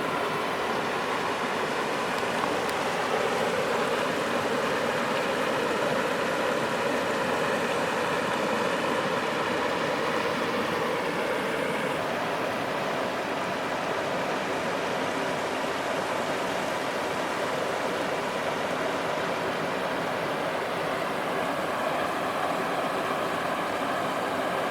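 Waterfall and creek water rushing in a steady, unbroken wash of noise.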